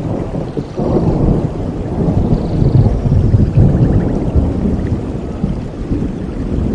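Rolling thunder over steady rain in a rainforest. The low rumble swells about a second in, is loudest in the middle and eases off toward the end.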